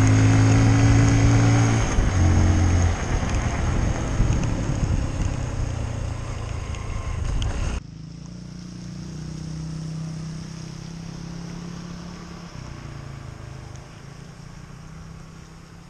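Honda CRF150L's single-cylinder four-stroke engine running steadily under throttle, then the engine note falls away about two seconds in, leaving rushing wind and tyre noise on the wet road. About eight seconds in the sound cuts suddenly to a much quieter faint low engine hum.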